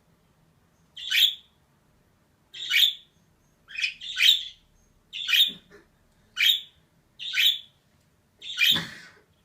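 Female budgerigar giving short, harsh chirping calls, about eight of them spaced roughly a second apart, the last one longer than the rest.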